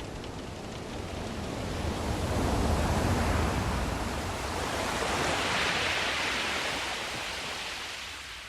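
Sea waves surging in slow swells: a deep rush builds about two to three seconds in, a brighter hiss peaks around six seconds, and it fades toward the end.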